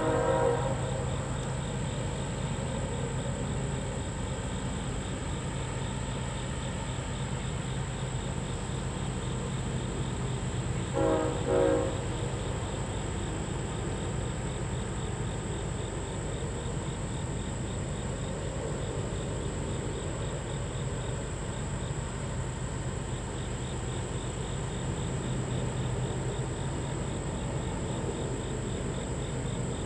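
Freight train rolling by, the steady low rumble of its passing cars. A locomotive horn trails off just after the start and gives one short blast about eleven seconds in.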